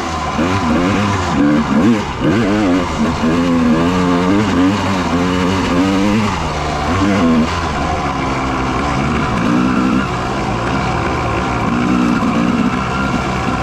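Dirt bike engine revving up and down as it is ridden off-road, the pitch rising and falling every second or so.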